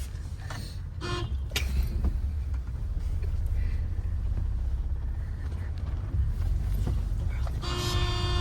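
Low rumble of a car's engine and road noise, with a car horn honking briefly about a second in and again for most of a second near the end. There is a sharp knock just after the first honk.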